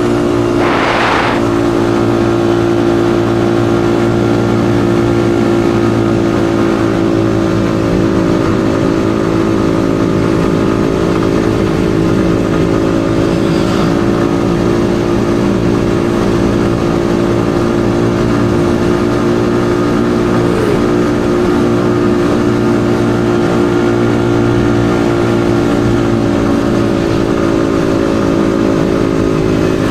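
Yamaha XSR155's 155 cc single-cylinder engine running at a steady speed under way, its note holding nearly constant pitch, with a brief hiss about a second in.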